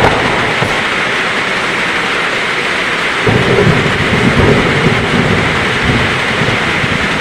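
Heavy rain falling steadily, with a low rumble of thunder that starts suddenly about three seconds in and goes on to the end.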